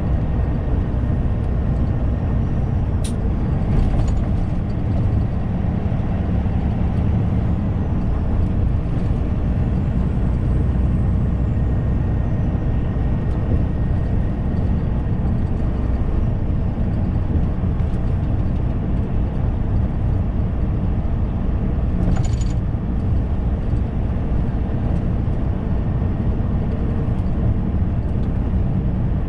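Semi-truck driving on the road, heard inside the cab: a steady low engine and road drone, with a few brief sharp clicks or hisses about three, four and twenty-two seconds in.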